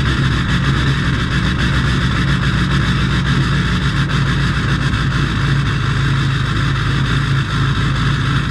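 2006 LBZ Duramax 6.6-litre turbo-diesel V8 idling steadily through a 5-inch straight-piped exhaust.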